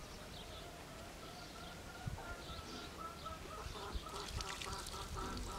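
Faint bird calls: scattered high chirps, then a run of short repeated calls from about two seconds in.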